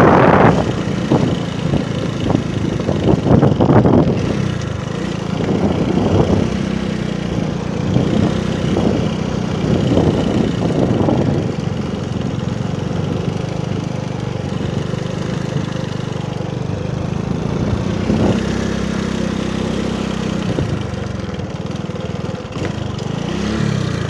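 Motorcycle engine running under way, its pitch shifting with the throttle and rising and falling once near the end. Louder rushes of noise come over it in the first few seconds and again briefly around the middle.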